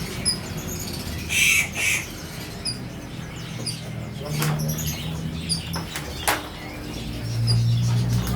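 Caged songbird fluttering its wings, two loud flurries about one and a half and two seconds in, among short high chirps repeated every half second or so and a few sharp clicks.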